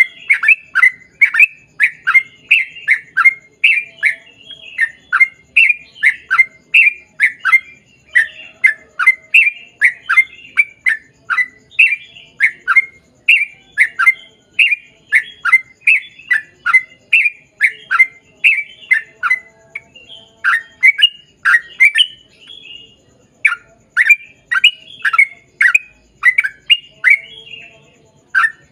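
Yellow-vented bulbul (trucukan) singing a long, rapid run of sharp chirping notes, about two to three a second, with one short pause near the end.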